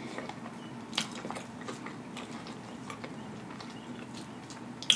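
A person chewing food with the mouth closed, close to the microphone: soft mouth clicks throughout, a sharper click about a second in and another near the end.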